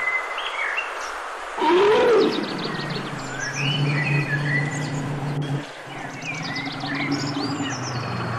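Brown bear giving one short roar, rising and then falling in pitch, about two seconds in; it is the loudest sound. Birds chirp throughout over a steady low hum.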